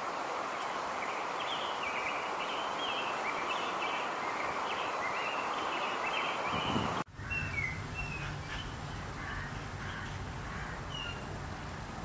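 Outdoor background noise with birds calling in short, repeated chirps. About seven seconds in it cuts abruptly to a different outdoor background with a low hum and only a few scattered bird calls.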